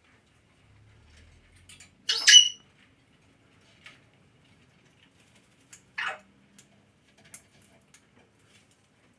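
Parrots calling: one loud sharp call with a rising whistle about two seconds in, a shorter call about six seconds in, and faint clicks and scratches between.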